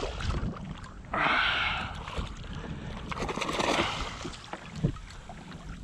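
Water sloshing and splashing around a kayak at sea, with wind on the microphone. There are two louder rushes, one about a second in and one around the middle.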